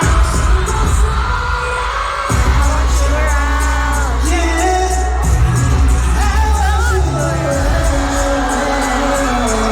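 Pop song performed live through a concert sound system, a male lead vocal over a heavy, loud bass beat, heard from the audience.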